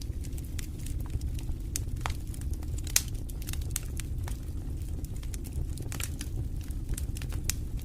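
Wood fire in a fireplace crackling: irregular sharp pops and snaps over a low, steady rumble of the flames, with one louder pop about three seconds in.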